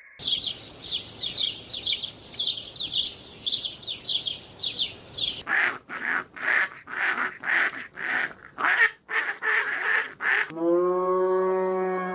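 Animal calls in three abrupt sections. First comes quick high-pitched chirping, about three calls a second. About five seconds in it switches to a run of harsh, honking calls, about two a second. Near the end there is one long, steady pitched call.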